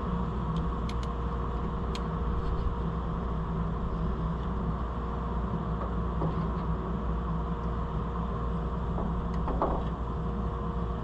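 Steady low mechanical hum with a constant tone in it, and a few faint, light clicks.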